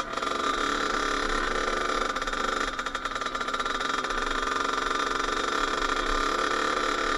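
Kawasaki KX80 two-stroke dirt bike engine running steadily.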